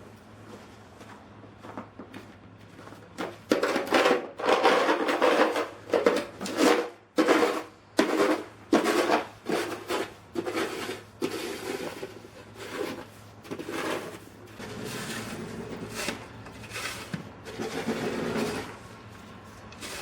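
Snow shovel scraping and pushing through snow in a run of irregular strokes starting about three seconds in, louder in the first half.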